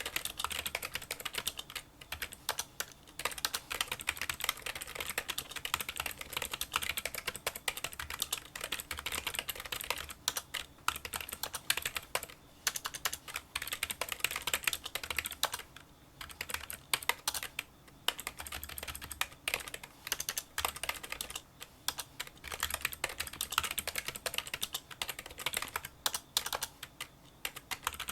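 Fast touch-typing on a Kinesis Freestyle Solo split keyboard with membrane key switches: a dense run of small, light clicks, broken by a few brief pauses.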